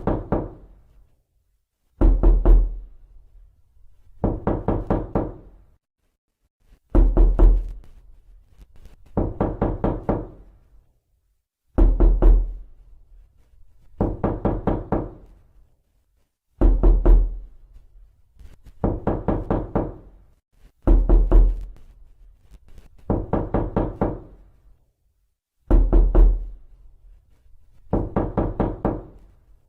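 Knocking on a door in quick series of about four to six raps, a new series roughly every two seconds, each rap with a dull low thud.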